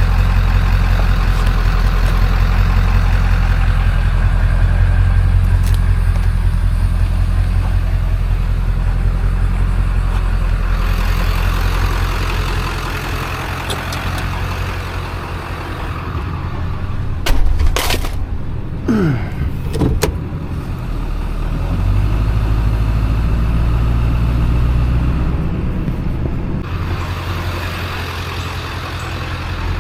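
A motor vehicle running with steady low engine and road noise, easing off around the middle. A few sharp clicks come about seventeen seconds in, followed by a short falling squeal.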